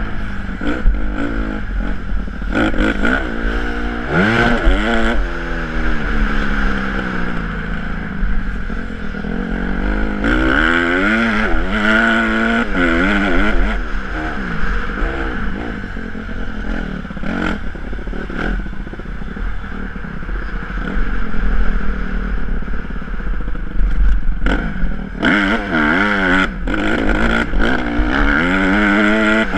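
Honda CRF150R's four-stroke single-cylinder engine revving up and falling back again and again as the bike is ridden around a motocross track, with wind rumbling on the microphone and some clattering from the bike over bumps.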